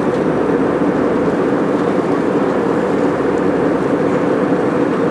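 Steady cabin noise of an airliner in cruise: the even rush of engines and airflow heard from inside the passenger cabin.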